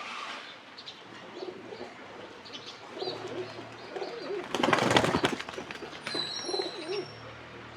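Pigeons cooing over and over in low, wavering calls. A loud rustling burst comes about halfway through, and a few high chirps follow near the end.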